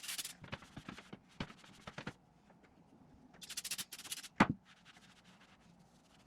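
Metal gear parts of an excavator swing reduction case being handled and fitted, with short scraping noises, small ticks and one sharp metal knock a little past the middle, as timing-marked gears are lined up and seated.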